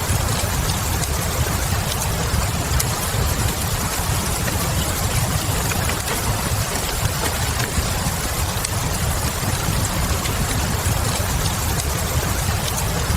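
Steady rain mixed with a fireplace, with a constant low rumble underneath and a few faint, scattered crackles from the fire.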